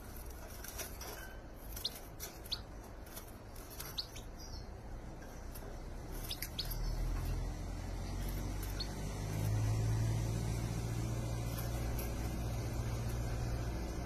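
Small bird chirping: a few short, high chirps over the first five seconds. Then a low steady rumble comes in about six and a half seconds in and carries on under the sound.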